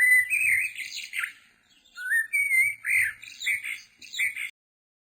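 A bird chirping and warbling in two phrases with a short gap between them, stopping abruptly.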